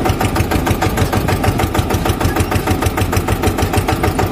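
Tractor engine sound running steadily with a fast, even chug of about ten to twelve beats a second.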